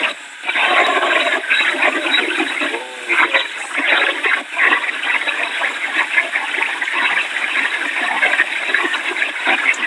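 Wind and rain rushing over the microphone in a dense, steady roar with uneven louder surges, heard at phone-call quality.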